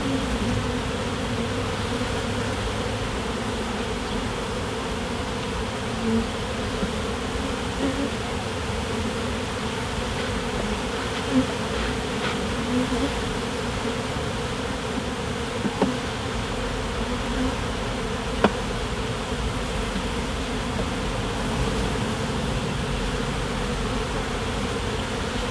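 Many honeybees buzzing in a steady, dense hum around an opened hive while its frames are being inspected, with a few faint clicks along the way.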